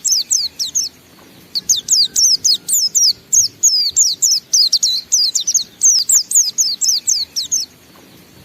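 White-eye (pleci) singing its long, rapid "ngalas" song: a fast string of high, thin, sweeping chirps. A short phrase and a brief pause are followed by a long unbroken run that stops shortly before the end.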